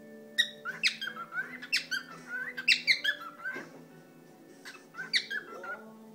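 A cockatiel whistling and chirping in quick, sharp, gliding notes: a busy run in the first half, a pause, then a couple more near the end, with music playing underneath.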